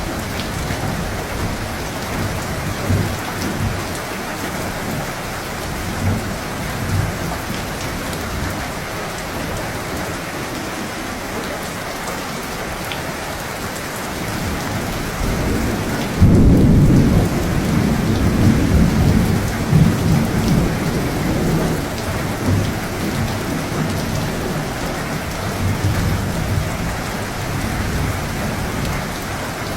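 Steady rain falling in a thunderstorm, with thunder rumbling low. About halfway through, a sudden louder thunder rumble starts and rolls on for several seconds.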